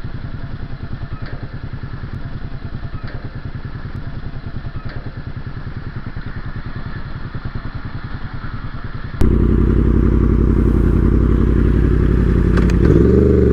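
A motorcycle engine idles with an even, pulsing beat. About nine seconds in it cuts suddenly to a louder motorcycle engine, a Yamaha R1 with an aftermarket exhaust, running steadily, its pitch dipping and then rising near the end.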